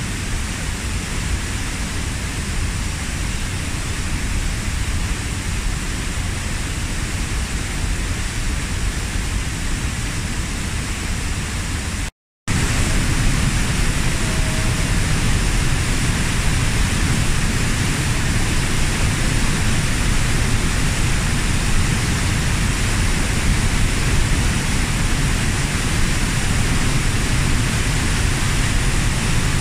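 Steady rushing roar of the 15 m Kozjak waterfall. About twelve seconds in, the sound cuts out for a moment and returns a little louder and deeper.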